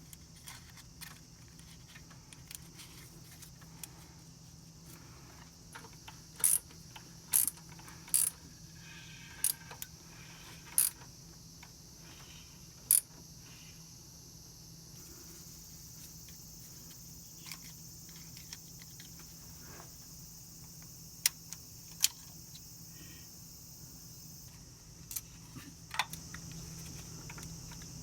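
Light metal clinks and taps, about a dozen sharp ones spread out with pauses, as small metal parts or tools are handled, over a steady low hum.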